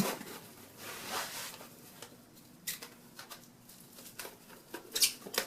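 Plastic cling wrap rustling and crinkling as it is pulled off a small roll and wrapped around a foam pool noodle, with soft rustles about a second in and sharper crackles near the end.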